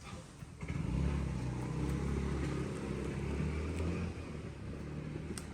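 A motor vehicle's engine running close by. It comes in about a second in, is loudest for a few seconds, then eases off toward the end.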